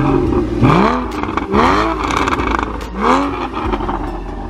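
Porsche Cayman 981's flat-six engine, with the optional sports exhaust, blipped several times from idle, each rev rising quickly and dropping back.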